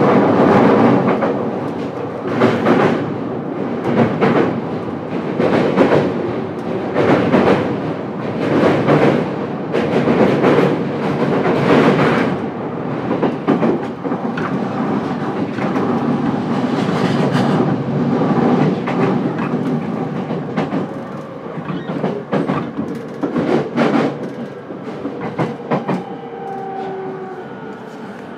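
Running noise inside the motor car of a JR East E231-series commuter train: wheels clacking over rail joints again and again over a steady rumble. Toward the end the noise falls away and a faint whine comes in.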